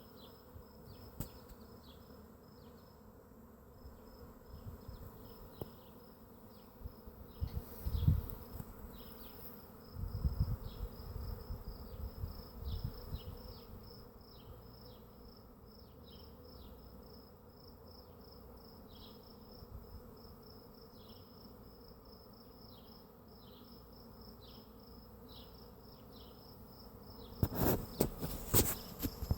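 A bee swarm buzzing steadily, with a short high chirp repeating about once or twice a second over it. There are low bumps partway through and a burst of louder clicks and rustles near the end.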